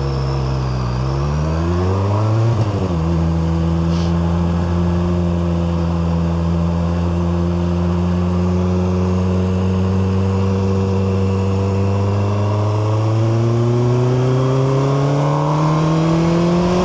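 QJMotor SRK 921 RR's inline-four engine on its standard exhaust, heard from the saddle under way. Engine speed rises and drops sharply at an upshift about two and a half seconds in. It then holds a steady cruising note, and near the end builds slowly again as the bike gathers speed.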